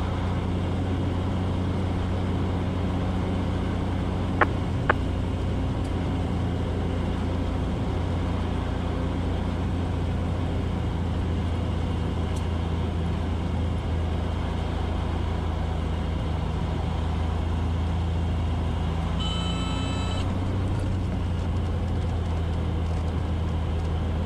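Steady drone of a Cessna 182's engine and propeller at low power during landing and taxi. Two sharp clicks come about four and five seconds in, and a brief high tone with overtones sounds near the end.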